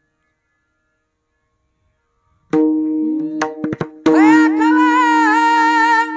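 Silence, then about two and a half seconds in a harmonium-like drone sounds with a few hand-drum strokes. A second later a singer comes in on a long, wavering held note over the drone, as the kirtan music for a sung verse begins.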